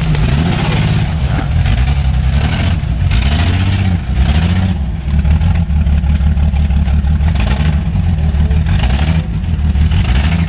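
Vehicle engine running loudly under changing throttle, its pitch rising and falling repeatedly.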